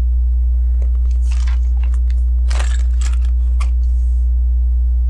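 Small plastic LEGO pieces being handled and pressed together: scattered clicks and rustles, a few at a time. Underneath runs a loud, steady low mains hum.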